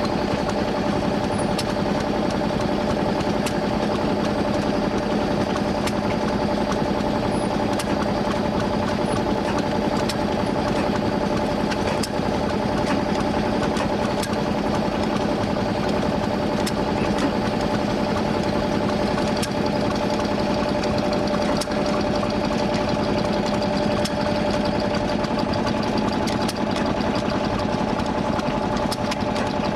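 An engine running steadily at an even speed throughout, its note holding constant, with a few faint clicks over it.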